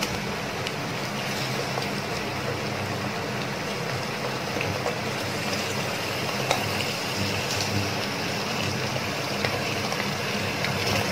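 Raw chicken pieces and browned onions sizzling steadily in hot mustard oil in a pressure cooker, with a few faint clicks as pieces drop in.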